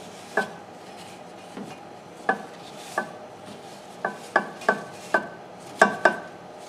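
Sharp metallic taps, each with the same short ringing note, about nine at uneven intervals, coming closer together in the second half: a metal part at the back of a refrigerator being knocked or scraped while dirt is cleaned off it.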